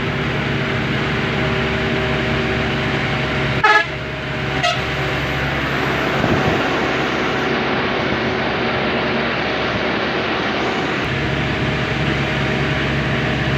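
Truck engine running steadily on the move, with two short horn toots about four seconds in, the first loud and the second fainter.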